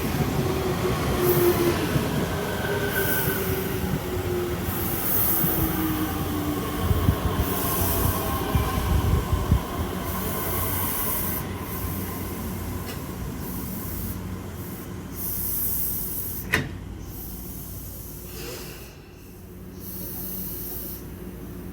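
Tobu Tojo Line electric train slowing down, its motor whine falling in pitch over the first several seconds over a rumble of wheels on rail. Bursts of hissing air recur as the sound slowly dies down, with one sharp click about two-thirds of the way through.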